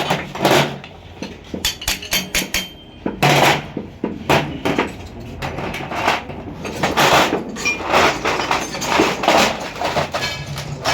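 Irregular metallic knocks and clinks of hand tools striking and handling metal parts of an auto-rickshaw engine and gearbox during assembly.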